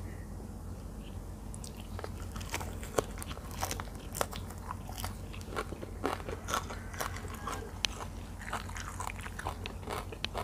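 Close-miked chewing of a leaf-wrapped mouthful of spicy tilapia larb: crisp crunching and many sharp wet mouth clicks from about a second and a half in, over a steady low hum.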